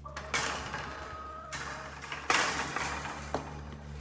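Three loud bursts of rustling, scuffing noise, about a second apart, over a faint, steady background of music.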